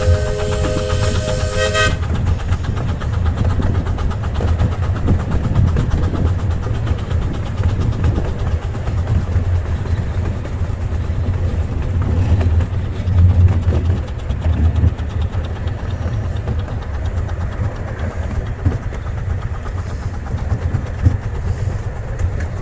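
Double-headed miniature steam train: a locomotive whistle sounding a steady chord cuts off about two seconds in, then the train runs on with a steady low rumble and fast rail clatter.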